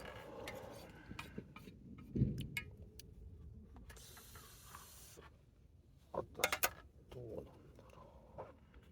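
Scattered clicks and knocks from objects being handled, with a dull thump about two seconds in and a brief rustle around four seconds in.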